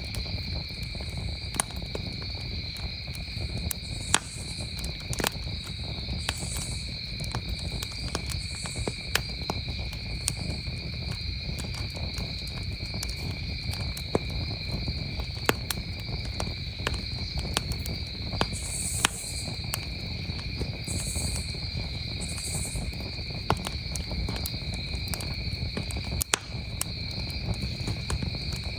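Wood campfire crackling, with sharp pops at irregular moments, over a steady, unbroken trill of crickets.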